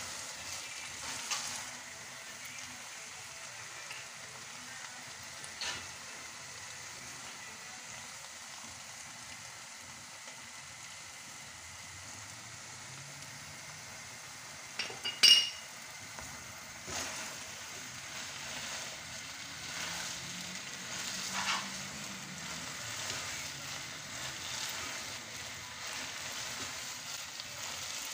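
Chicken keema and diced potatoes sizzling in a pan as they are dry-fried (bhuna) after the potatoes have softened, with a spatula stirring and scraping through them now and then. A sharp clink about halfway through is the loudest sound.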